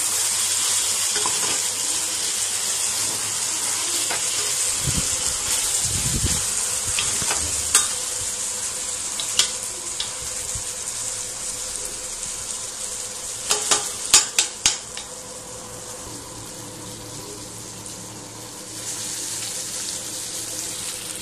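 Raw chicken pieces sizzling in ginger-garlic paste in a stainless steel pot while being stirred with a spatula, the steady hiss broken by a few sharp knocks of the spatula against the pot, several bunched together about two-thirds of the way through. The sizzle eases after that and rises again near the end.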